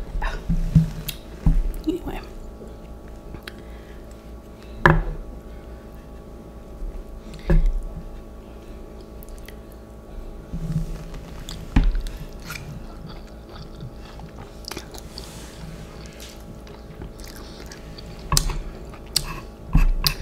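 A person chewing spicy instant noodles close to the microphone, with scattered short, sharp clicks and smacks. A steady low hum runs underneath.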